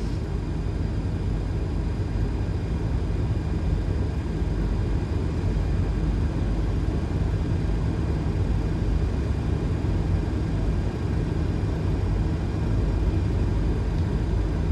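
Boeing 737 flight deck on final approach with landing gear down and flaps at 30: a steady rush of airflow noise with a low hum underneath, growing slightly louder near the end.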